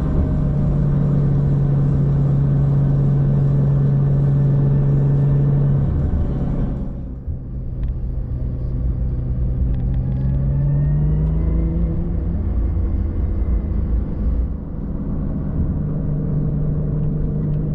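Vehicle engine running under way, its note holding steady, dropping off about six to seven seconds in, then rising again as it picks up speed.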